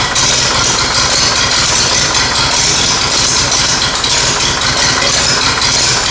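Massey Ferguson TEA20 tractor's four-cylinder petrol engine idling steadily on its first run after an overhaul. It still needs a tune-up, with the ignition timing only roughly set.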